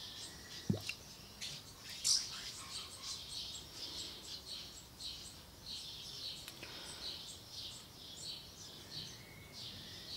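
Small birds chirping over and over, a few short high chirps a second, with a soft knock about a second in and a sharp click about two seconds in.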